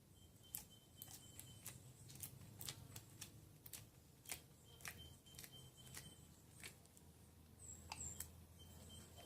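Faint, irregular clicks and taps, about twenty of them, with a few brief high chirps near the end.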